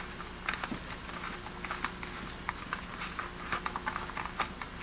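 Scattered light clicks and taps, several a second at irregular intervals, over a faint steady hum.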